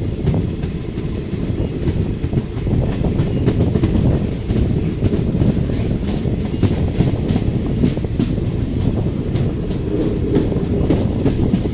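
Passenger train running on the line, heard from aboard a sleeper coach: a steady, loud rumble of the wheels on the track with clickety-clack over the rail joints.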